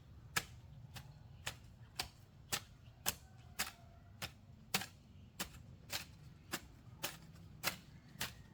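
A steady run of sharp knocks, about two a second, evenly paced.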